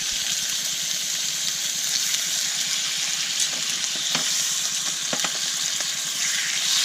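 Food sizzling steadily in a hot pan, with a few scattered crackling pops.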